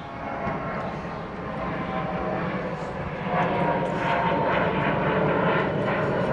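An airplane engine droning overhead, growing louder about three seconds in as it passes.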